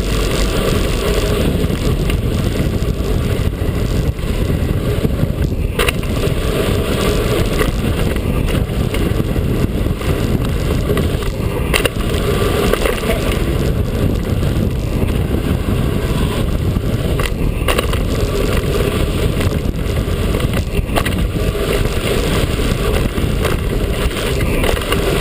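Mountain bike descending a dirt trail fast: a steady rush of wind on the microphone mixed with tyres rolling over the ground, with a few sharp knocks along the way.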